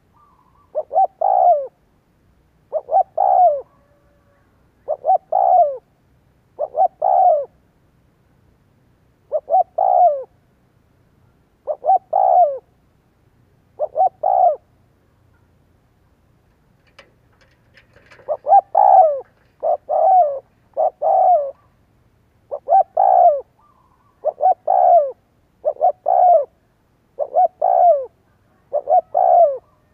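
Spotted dove cooing: short repeated coo phrases, about one every two seconds, with a pause midway and then a quicker run of phrases. It is a decoy bird's call, the kind used to provoke and draw in wild male doves.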